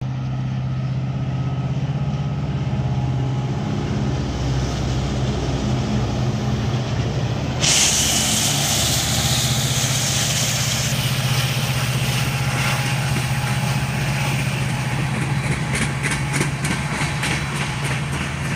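BNSF EMD SD70ACe diesel-electric locomotives of a freight train running past with a steady engine drone. About eight seconds in, a sudden louder rush of rolling noise comes as the locomotives pass close. Near the end there is a run of rhythmic wheel clicks as the empty coal hopper cars roll by.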